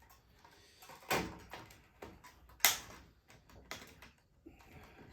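Wire cutters snipping through the wires of a washing machine's wiring harness to cut off the plugs: several sharp snips spaced about a second apart, the loudest about one and almost three seconds in.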